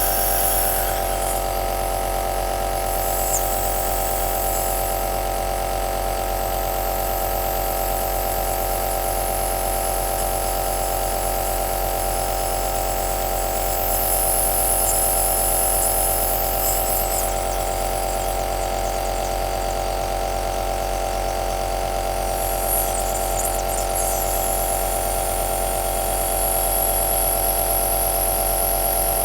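Compressor nebulizer running steadily: a constant motor hum with a hiss of air over it that grows a little stronger now and then.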